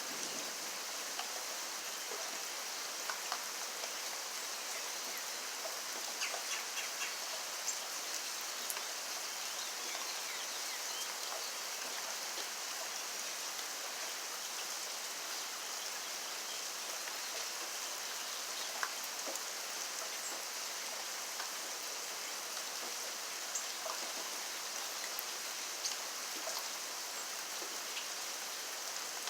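Steady rain falling, a constant hiss with scattered sharp drips and drop taps.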